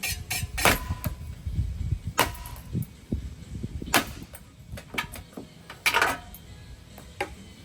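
Ceiling fan being smashed apart: a series of irregular sharp metallic bangs and clangs, some ringing briefly, with a low rumble in the first couple of seconds.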